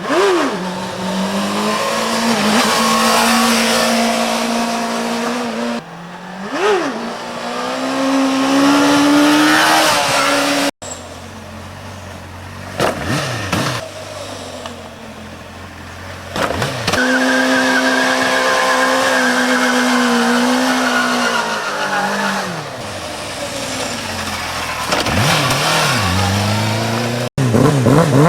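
Suzuki GSX-R600 inline-four sport bike engine revved hard: short throttle blips and long high-rpm runs held for several seconds, each falling in pitch as the throttle closes.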